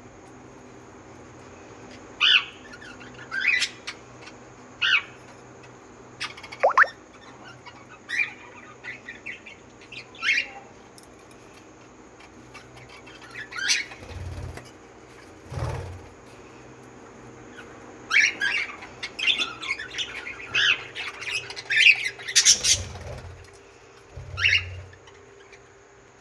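Birds chirping and squawking in short, scattered calls, with one downward-sliding whistle about seven seconds in and a busier run of calls in the last third, over a faint steady hum.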